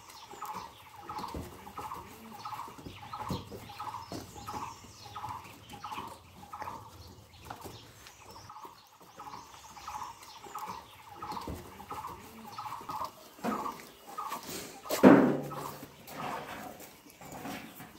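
A bird calling one short note over and over at an even pace, about twice a second. Near the end there is one brief, louder sound from close by.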